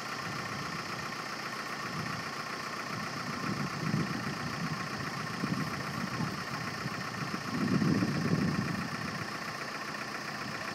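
Truck engine running steadily, with louder low rumbling surges about four seconds in and again around eight seconds in.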